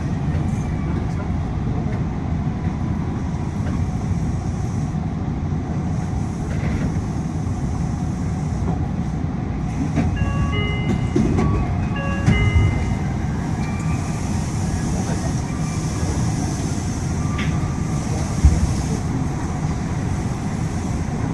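Yui Rail monorail cabin noise while running: a steady low rumble from the train and the air conditioning. About halfway through comes a short run of brief high tones at several pitches, and near the end a single low thump.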